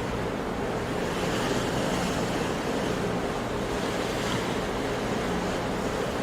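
Sea waves washing onto a shore in a steady, continuous rush of surf, with no distinct breaks.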